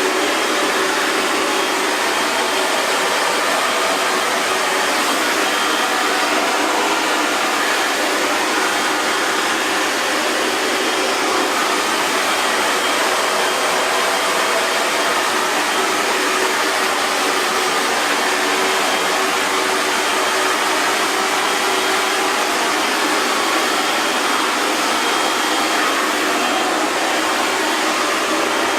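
Hair dryer running continuously at a steady speed: an even airy rush with a faint motor hum, unchanging throughout.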